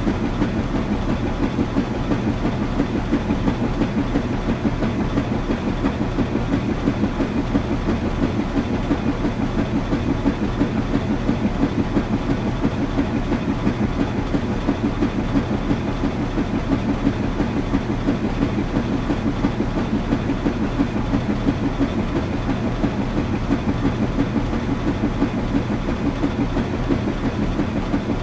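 Washing machine running, a steady low rumble with a fast, even flutter that does not change.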